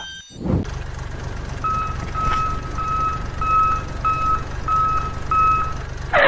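Vehicle reversing alarm beeping steadily, about seven beeps starting a second and a half in, over a steady low engine rumble: the warning sound of a truck or tractor backing up.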